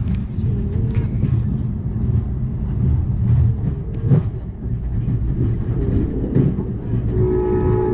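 Amtrak Cascades passenger train running at speed: a steady low rumble with scattered knocks from the wheels on the track, the sharpest about four seconds in. Near the end a train horn starts sounding a steady chord.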